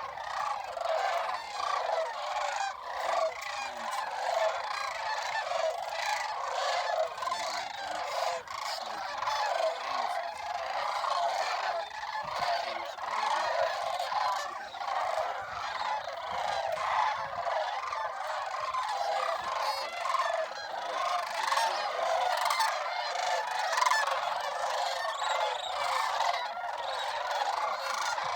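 A large massed flock of snow geese and sandhill cranes calling at once: a dense, unbroken din of many overlapping honks and calls.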